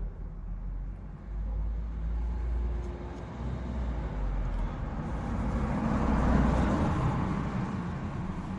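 A road vehicle passing by, its noise swelling to a peak about two-thirds of the way through and then easing, over a low buffeting rumble of wind on the microphone.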